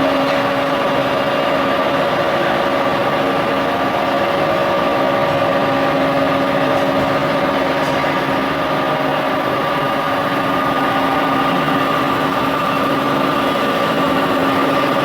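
Crankshaft grinding machine running steadily as it grinds a compressor crankshaft: a constant hum of several steady tones over a dense grinding hiss.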